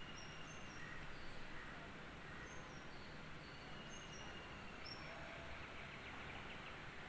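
Faint, scattered short high chirps of small birds over a steady outdoor hiss.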